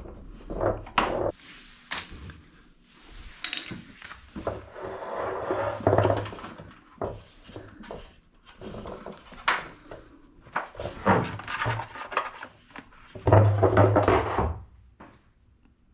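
Irregular plastic knocks, clicks and scraping as the lint filter is worked off the inner tub of a top-loading washing machine, with two longer rubbing scrapes, one in the middle and a louder one near the end.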